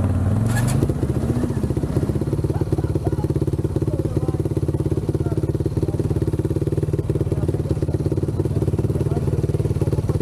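Can-Am Renegade ATV's V-twin engine rising in revs briefly at the start, then running at a steady speed with an even, rapid exhaust pulse.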